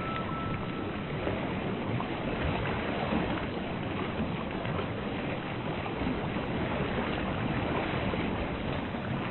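Steady rushing sound of ocean water, an even wash of noise with no distinct waves breaking.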